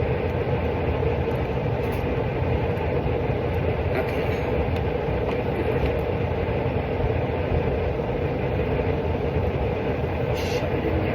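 A steady mechanical drone from a running machine, with a constant mid-pitched hum over a low rumble, and a few faint ticks from handling.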